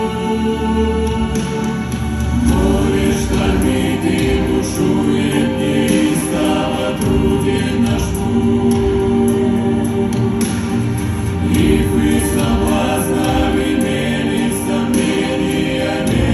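Music: a choir singing slow, sustained chords with accompaniment.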